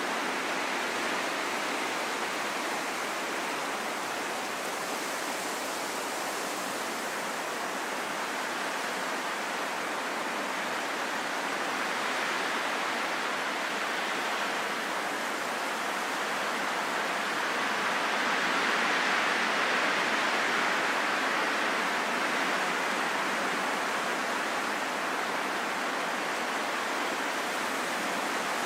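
Steady rushing wind, a continuous hiss that slowly swells, loudest about two-thirds of the way through.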